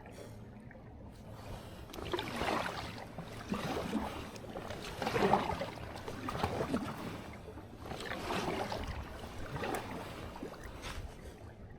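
Kayak paddle strokes swishing and dipping through lake water, a stroke about every one and a half to two seconds, over a low steady rumble.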